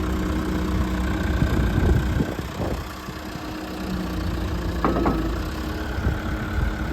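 JCB 214 Series 2 backhoe's diesel engine idling steadily, with a few short knocks about two seconds in and again about five seconds in.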